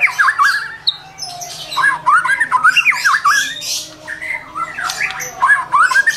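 White-rumped shama (murai batu) singing: a rapid phrase of swooping whistled notes, given three times with short pauses between.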